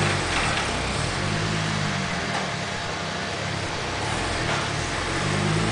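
BMW 335i's turbocharged inline-six running steadily at low revs on a chassis dyno, through the stock exhaust with aftermarket downpipes, before the pull begins. The level dips slightly midway and rises a little near the end.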